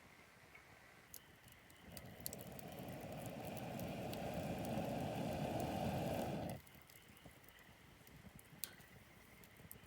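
Campfire crackling with scattered sharp pops, while a low rushing, blowing noise swells for about five seconds and then cuts off suddenly.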